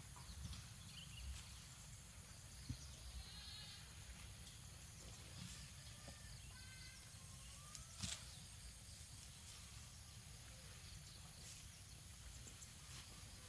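Faint animal calls, a few short wavering cries and a rising call, over a steady background hiss, with two sharp clicks.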